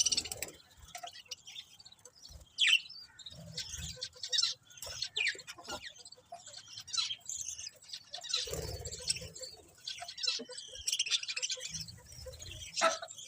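Budgerigars chirping and chattering, a busy run of short, quick high chirps and warbles with a few sharper calls, over occasional low rumbling noise.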